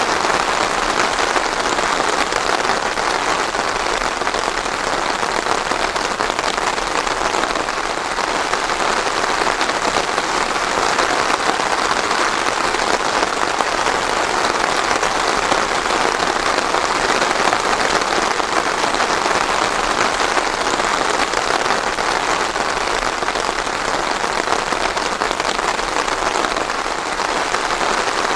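Steady rain falling, a dense, even patter without thunder.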